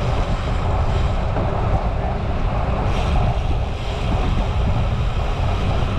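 Steady wind noise buffeting the microphone of a camera riding along on a moving bicycle, a loud rush heaviest in the low end.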